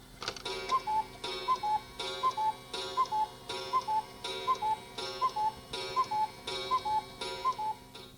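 Clock tick-tock sound effect: an even tick then a lower tock, repeated about once every three-quarters of a second, each beat with a metallic ring, eleven times over, then stopping.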